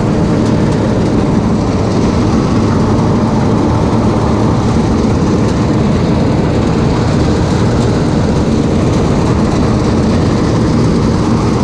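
A heavy farm machine's diesel engine running loud and steady, with no change in speed.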